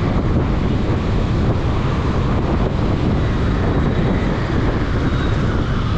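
Steady wind rushing over the microphone of a camera on a moving motorcycle, with road and engine noise underneath.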